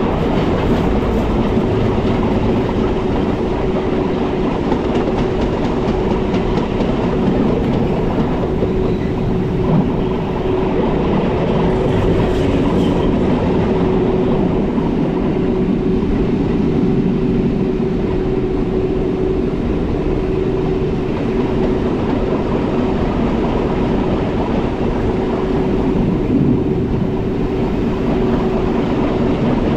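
Metre-gauge Rhaetian Railway train running steadily, heard from the driver's cab: continuous rolling and running noise with a constant hum.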